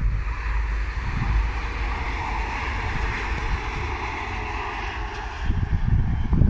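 Regional train (a Régiolis unit) passing along the line, a steady rolling noise that swells in the middle, under wind buffeting the microphone that is heaviest at the start and again in the last second or so.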